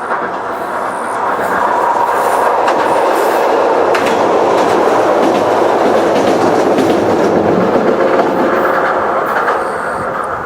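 Ichibata Electric Railway 2100 series electric train (former Keio 5000 series) passing close by, its wheels clicking over rail joints. It grows louder over the first couple of seconds, holds, and fades near the end.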